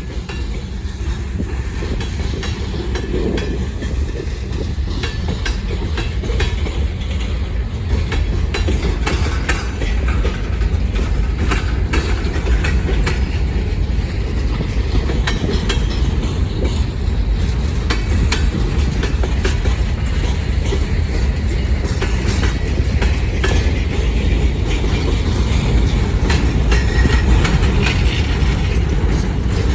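Manifest freight train rolling past: a steady heavy rumble with many sharp wheel clicks, slowly getting louder toward the end.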